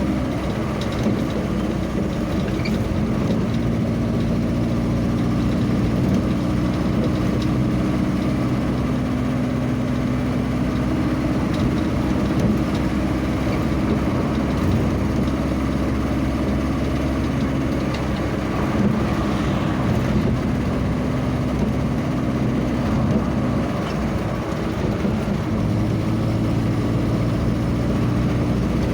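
A vehicle engine running steadily while on the move, its low hum shifting slowly in pitch over constant road noise.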